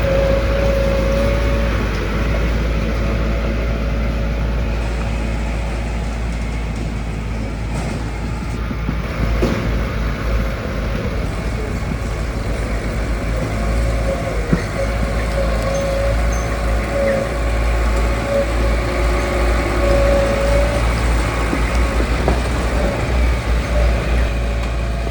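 Heavy diesel construction machinery running steadily, a low rumble with a held whine over it.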